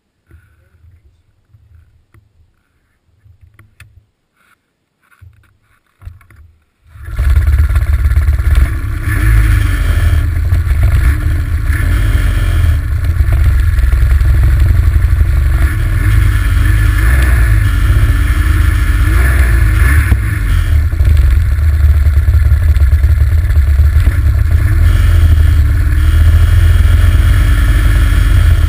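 Quiet with a few faint knocks for about seven seconds, then an Arctic Cat ZR800 snowmobile's two-stroke engine comes in suddenly and runs loud, its pitch wavering, with heavy wind rumble on the microphone. The sled has been showing overheating lights, and the owner suspects bad injectors.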